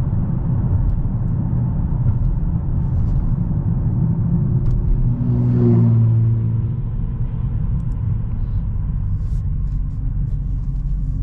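Steady low rumble of engine and road noise from a 2022 Dodge Challenger Hellcat's 6.2-litre supercharged V8 cruising gently on the highway during its engine break-in. A louder humming note swells briefly about halfway through.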